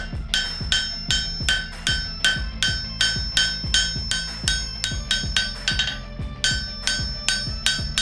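Blacksmith's hammer striking on the anvil in an even rhythm, about two and a half blows a second, each blow leaving a bright metallic ring, with a brief pause about six seconds in. A steady low hum runs underneath.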